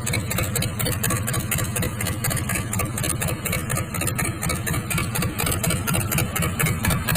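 Cummins 4B four-cylinder diesel engine running steadily at idle on a test run, with a rapid, even clatter.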